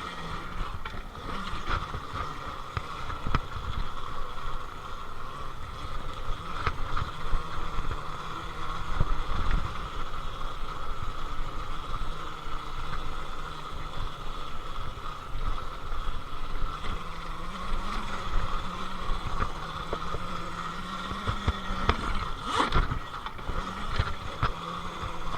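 HappyRun electric dirt bike ridden over a dirt track: a steady high electric-motor whine over gusty wind buffeting on the microphone, with knocks from bumps, a stronger one near the end.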